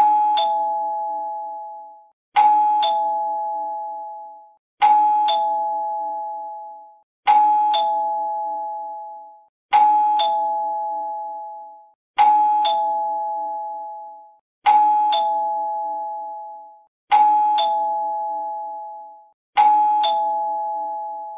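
Two-tone ding-dong doorbell chime rung nine times in a row, about every two and a half seconds. Each ring is a higher note followed by a lower one that fades away.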